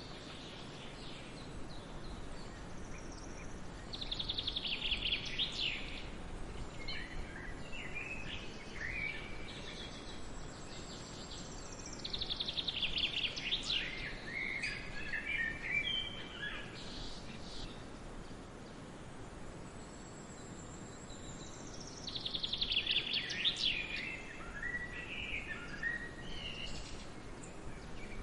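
A songbird sings the same phrase three times, about eight to ten seconds apart: each starts with a fast, high trill and runs down into a string of lower notes. Fainter chirps from other birds come between the phrases, over a steady background hiss.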